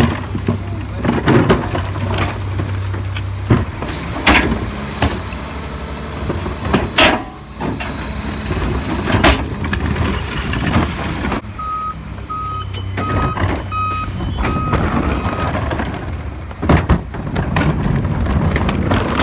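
Garbage truck at work: its diesel engine running, with several loud metallic clanks and bangs from containers and the body. Near the middle, a run of evenly spaced short beeps from the reversing alarm as the truck backs up.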